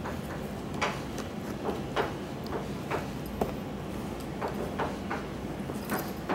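Irregular light taps and clicks, roughly one or two a second, over a steady low hum.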